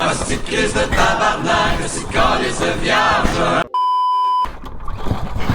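An edited-in sound clip of many voices singing together, band-limited, which cuts off suddenly a little over halfway through. A steady high beep tone follows for under a second, like a censor bleep.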